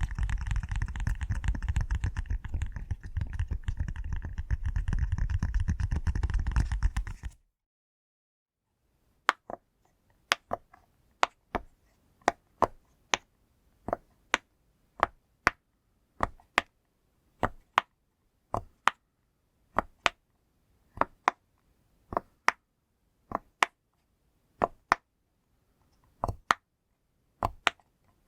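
Push-pop fidget toy. A fast, dense run of popping cuts off suddenly about seven seconds in. After a short pause come single sharp pops, about one to two a second, some in quick pairs.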